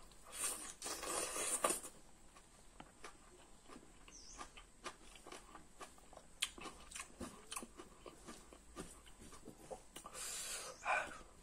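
Close-miked chewing and wet mouth clicks of a person eating rice, leafy greens and chicken curry, starting with a mouthful of greens. A dense bout of chewing in the first two seconds and again near the end, with scattered smacks and clicks between.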